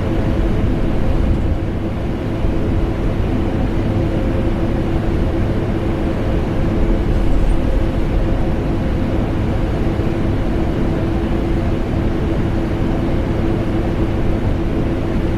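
Vacuum cleaner running steadily, blended with air conditioner noise: a constant, unchanging drone with a steady hum under it.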